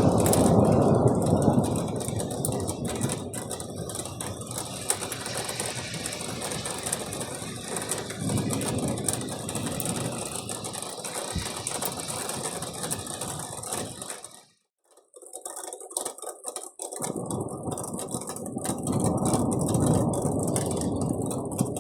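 Thunderstorm: dense, rapid pattering of rain and small hail, with rolling thunder rumbling at the start, again near the middle and once more near the end. The sound cuts out for about two seconds past the middle.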